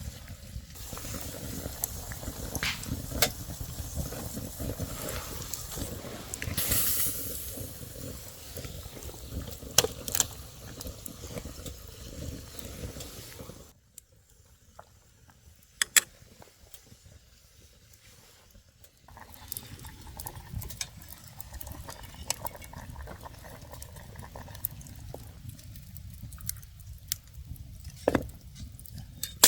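Camp cooking sounds: liquid bubbling in a pot with scattered sharp clicks and clinks of utensils. About halfway through it drops away for a few seconds to a quieter stretch with a few clicks, then resumes.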